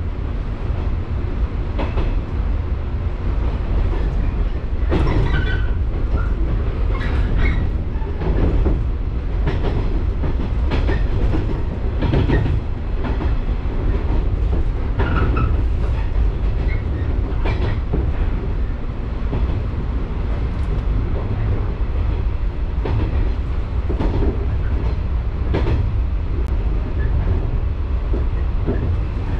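Local train running along the line, heard from inside the carriage: a steady low rumble with the wheels clicking over rail joints every second or two.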